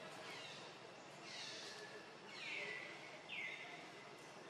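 A bird calling repeatedly, each call a short note sliding down in pitch, about one a second, over a faint steady outdoor hiss.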